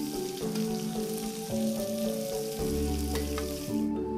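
Fried tofu and chilies sizzling in an aluminium wok, stirred with a metal spatula that gives a few light scrapes and taps. The sizzle cuts off sharply just before the end.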